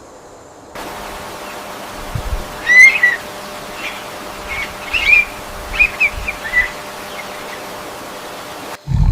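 Bird whistling and chirping over a steady rainforest background hiss: one loud whistled call about three seconds in, then a run of short chirps. A brief low rumble comes at the very end.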